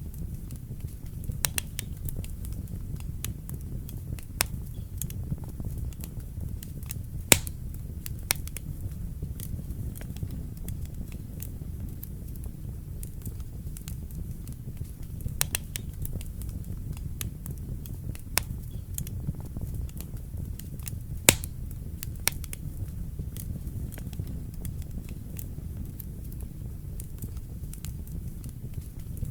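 Wood fire burning in a fireplace: a steady low rumble of the flames with irregular sharp crackles and pops, two louder snaps at about seven and twenty-one seconds in.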